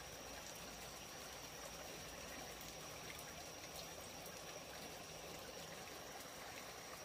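Faint, steady running water, with a thin, steady high tone throughout.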